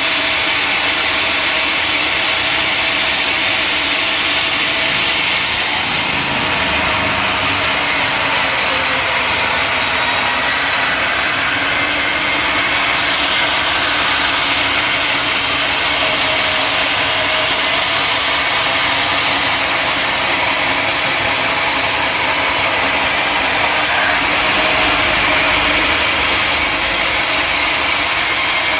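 Sawmill saw machinery running steadily: a constant loud mechanical noise with a steady engine-like hum underneath.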